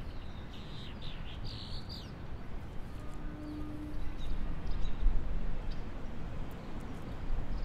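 Small birds chirping and calling outdoors, a run of calls in the first couple of seconds and then scattered fainter chirps, over a steady low outdoor rumble.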